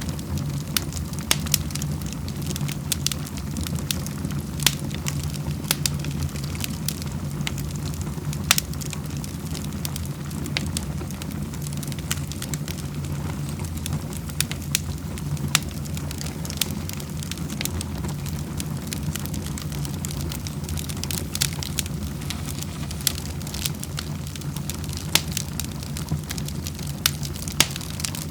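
Wood fire crackling steadily, with frequent sharp irregular pops over a low, continuous rumble of flames.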